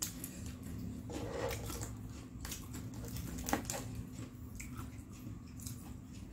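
Close-miked chewing of crispy fried snacks (gorengan), with scattered crunchy crackles and one sharper crackle about halfway through.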